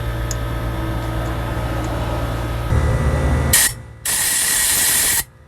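A motor hums steadily, louder for its last second, and cuts off about three and a half seconds in. Then comes a short blast of hissing spray, and a second, longer one of about a second that stops sharply.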